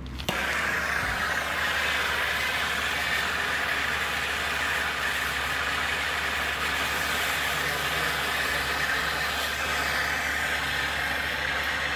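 Soldering torch flame hissing steadily as it heats a copper pipe joint for soldering; it comes on abruptly just after the start.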